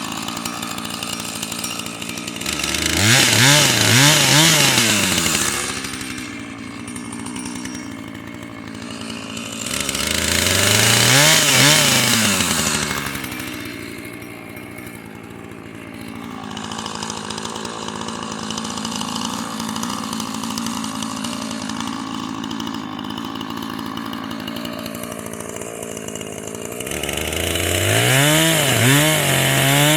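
Two-stroke Husqvarna chainsaw idling, revved up hard three times (about 3 s in, about 10 s in, and near the end), its pitch climbing and wavering under throttle before dropping back to idle.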